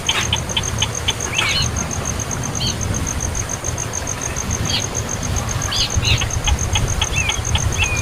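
A baby bird chirping in short high notes, some in quick runs of clicks, over a steady, evenly pulsing high insect chirp like a cricket's and a low rumble.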